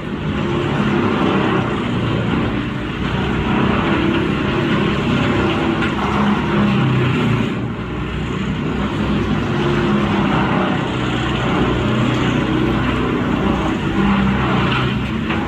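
Vermeer TG5000 wood grinder running under load, its engine droning steadily while the cutting teeth grind up logs. The noise is dense and continuous, easing briefly twice.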